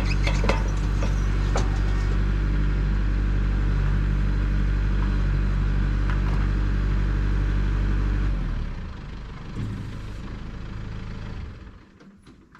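Engine idling steadily, then shut off about eight seconds in; a fainter low hum carries on for a few seconds and fades near the end.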